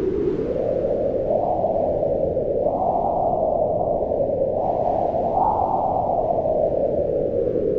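Howling mountain wind: a continuous rushing whose pitch rises and falls in slow gusts, swelling higher about three seconds in and again a little after five seconds.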